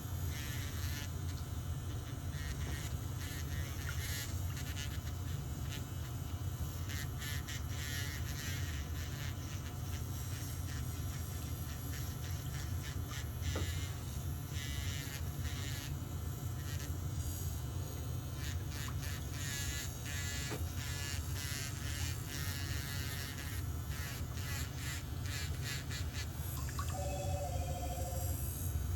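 Steady low hum, with irregular light scraping and clicking from nail-care tools working on toenails.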